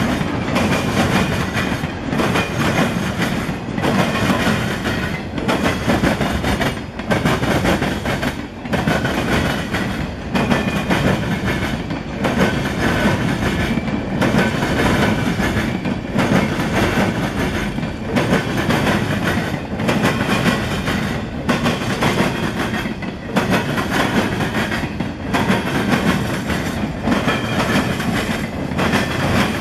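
Freight train of boxcars rolling past close by: a steady rumble and rattle of wheels on rail, swelling and dipping about every second and a half as the cars go by.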